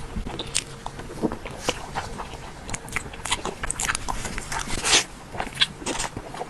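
Close-miked eating sounds: biting into and chewing a soft peach-cream mochi, with irregular wet mouth clicks and smacks and one louder smack about five seconds in.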